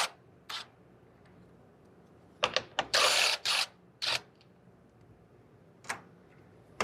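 Cordless power tool run in short bursts while loosening bolts, the longest lasting nearly a second around the middle. Sharp clicks of metal tools and bolts come between the bursts.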